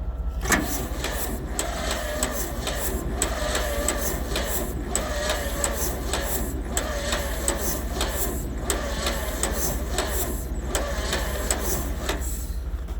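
Electric starter slowly cranking the John Deere A's cold two-cylinder engine in even, labored pulses, with a wavering whine from the starter. The engine does not fire.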